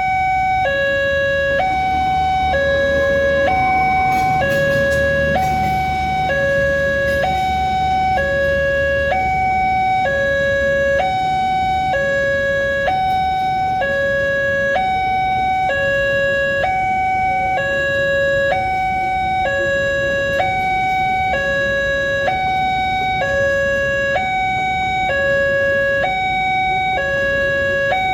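Electronic railway level-crossing warning alarm sounding a steady two-tone high-low signal, about one cycle a second, warning of an approaching train. A low engine rumble runs under it for the first ten seconds or so.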